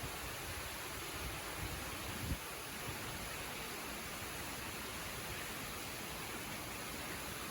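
Steady rushing of a waterfall, an even hiss of falling water. A few brief low thumps break in around one to two seconds in, the loudest just over two seconds in.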